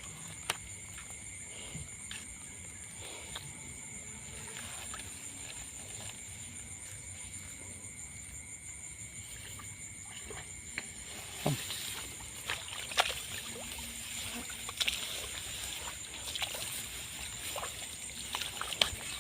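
Steady high-pitched trilling of night insects, with scattered clicks and watery splashes and sloshing that grow busier about halfway through.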